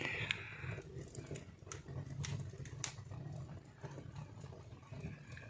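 Wood fire crackling in a fireplace: scattered sharp pops over a low steady rumble.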